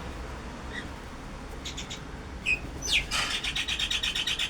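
Small birds chirping: a few scattered high chirps, then a short falling whistle, then from about three seconds in a fast, steady run of high chirps.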